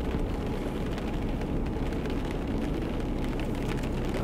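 Steady vehicle cabin noise: a low rumble under a faint hiss, with no separate events standing out.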